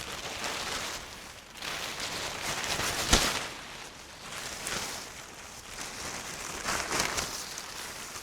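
Rustling and crunching in dry forest leaves, swelling and fading unevenly, with one sharp snap about three seconds in.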